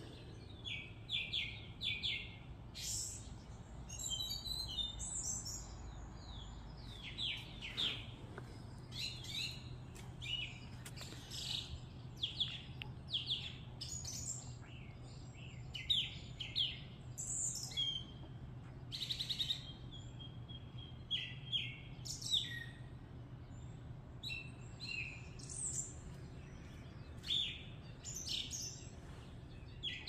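Many birds chirping and singing, one short high call after another with hardly a break, over a faint steady low hum.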